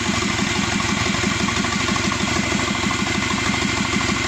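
Subaru EJ255 2.5-litre turbocharged flat-four engine idling steadily, fully warmed after about 18 minutes of running, with an even, rapid pulse.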